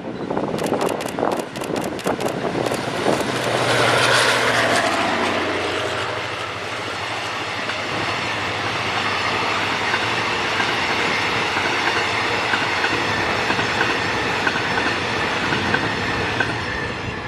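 Express passenger train passing through a station: sharp wheel clicks over the rail joints at first, loudest about four seconds in as the locomotive goes by, then the coaches rolling past steadily with a light regular clicking before it fades near the end.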